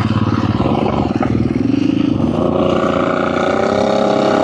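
Dirt bike engine revving hard, its pitch climbing about two seconds in and then held at high revs as it accelerates.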